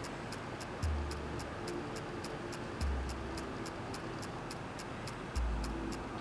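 Steady fast ticking, about four ticks a second, with a deep low tone sounding three times: about a second in, about three seconds in, and near the end.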